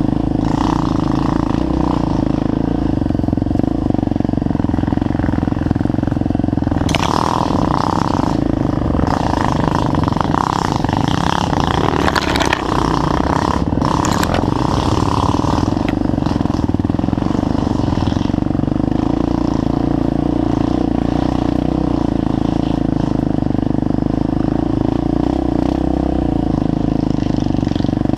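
Trail motorcycle engine running steadily under way. A stretch of knocks and rattling sits in the middle.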